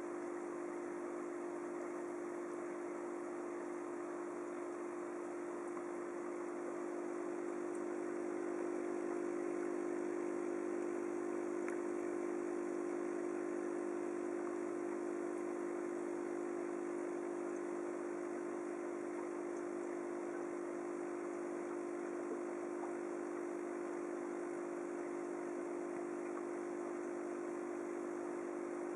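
Aquarium pump humming steadily with a low-level hiss.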